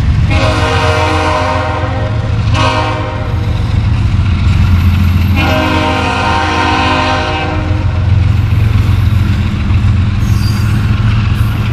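Double-stack intermodal well cars rolling past close by, a steady low rumble of wheels on rail, while the locomotive horn sounds three times from up ahead: a long blast just after the start, a short one near three seconds, and another long one from about five and a half to almost eight seconds.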